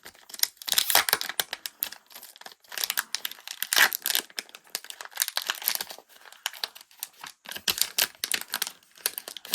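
Crinkling and tearing of a card-pack wrapper being pulled open by hand, in irregular bursts of crackle.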